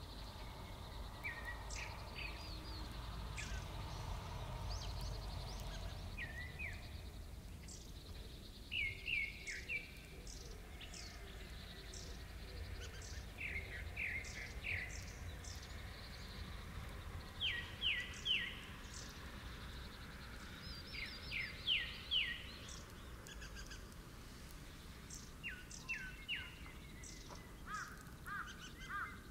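Small birds chirping outdoors: brief groups of two to four quick notes repeat every few seconds over a low steady rumble of background noise.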